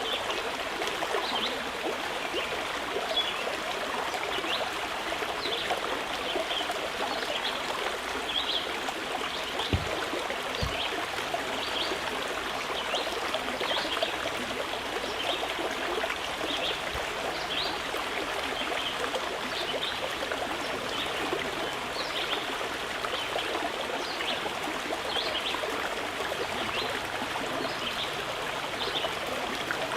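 A mountain river running, with a steady rush and burble of flowing water. There are two soft low thuds about ten seconds in.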